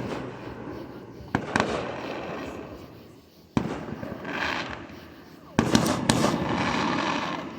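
Fireworks going off: a string of sharp bangs, one at the start and others about a second and a half, three and a half, and five and a half seconds in, each fading away in a long rumbling echo. Near the end several bangs follow close together.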